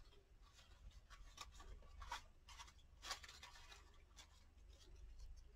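Faint rustling and light ticks of craft butterflies being handled and sorted by hand, a few soft scattered touches, the clearest about two and three seconds in.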